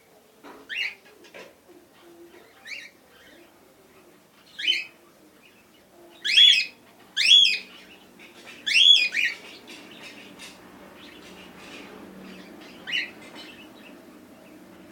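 Cockatiel calling: a series of short chirping calls, the three loudest in the middle, with a faint steady low hum underneath.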